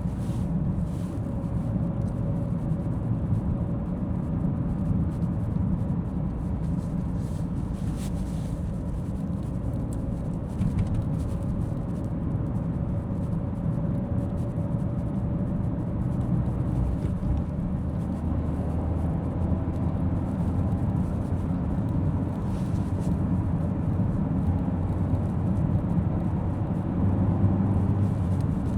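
Car being driven on the road: steady engine and tyre noise with a faint whine, on a road test of BC Racing coilovers fitted with new top mount bearings, with no clunking standing out.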